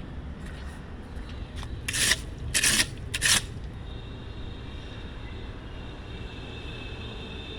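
Three short, loud scraping noises about two to three and a half seconds in, then a steady high whine that sets in and holds, from an approaching metro train.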